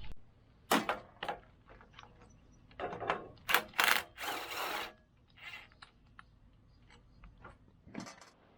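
Hand tools working on the riding mower's engine to undo a fastener: a string of sharp metallic clicks and knocks, with a short scrape or rattle about four seconds in, then a few fainter ticks.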